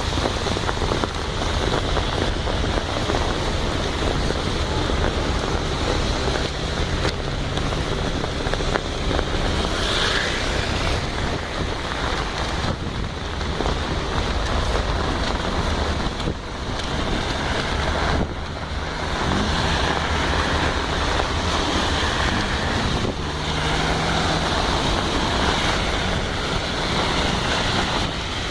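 Rain falling, a steady rushing noise that dips briefly now and then.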